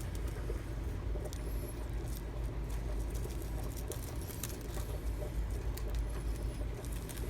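Outdoor background sound: a steady low rumble, scattered light clicks and crackles, and four short high chirps spaced about two seconds apart.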